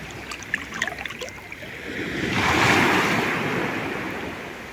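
Sea waves washing in: light crackling splashes at first, then one wave surging up about two seconds in and slowly fading.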